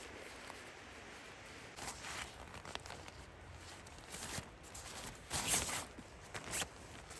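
A handful of short, irregular handling or movement noises over a faint steady background, the loudest about five and a half seconds in.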